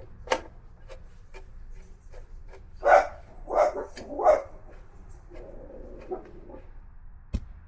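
A dog barking three times in quick succession, the loudest sounds here, with light clicks of hand tools on the motorcycle before and after.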